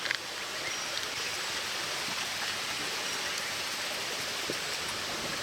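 Steady rushing hiss of running water, holding an even level throughout.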